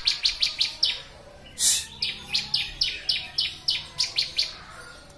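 Ciblek (bar-winged prinia) singing. One loud rasping note is followed by a quick run of sharp, high, downward-flicking chips, about four or five a second, and the phrase starts again near the end.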